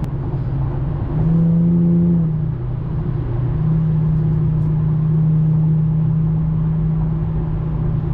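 Infiniti G37's VQ V6 with a muffler delete droning at high highway speed over road rumble; the drone swells about a second in, eases briefly, then holds steady.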